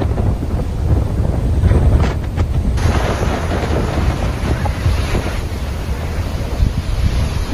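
Storm wind buffeting the microphone in a heavy, gusty rumble; about three seconds in a steady rushing hiss joins it.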